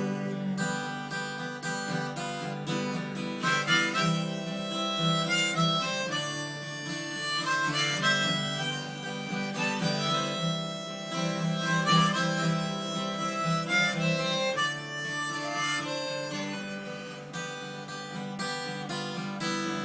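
Harmonica playing an instrumental solo over a strummed acoustic guitar, with melodic lines of held and bending notes between sung verses of a folk song.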